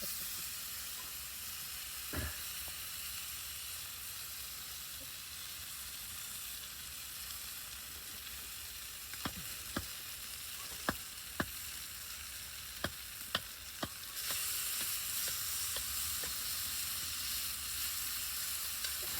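Food sizzling as it cooks on the fire, a steady hiss with scattered sharp pops; the sizzle grows louder about two-thirds of the way through.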